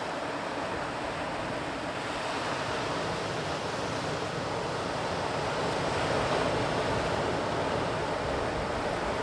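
Sea surf washing onto the shore, a continuous rush of waves that swells a little about six seconds in.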